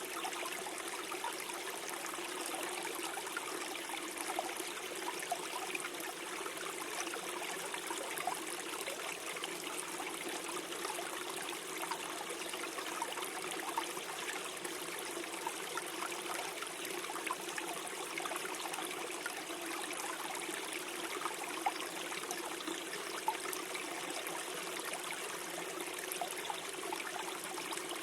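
Small forest stream flowing and gurgling over stones, a steady trickling with many small splashes.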